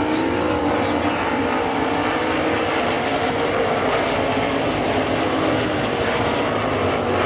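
Several winged sprint cars' V8 engines running hard together in a race, a steady dense engine mix whose pitches waver up and down as the cars circle.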